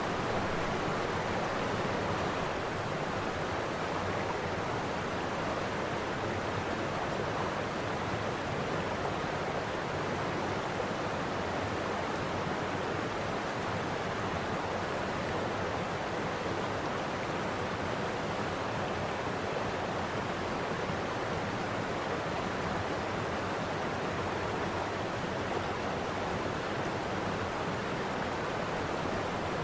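Steady rush of a waterfall, water pouring over rock.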